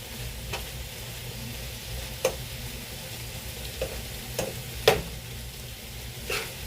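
Shaved steak sizzling in a pot while it is stirred, with scattered knocks of the stirring utensil against the pot; the loudest knock comes about five seconds in.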